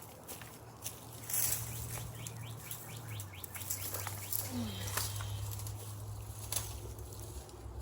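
Rustling and crackling of garden plants being pulled and handled, with a short rapid bird trill about two and a half seconds in, over a steady low hum.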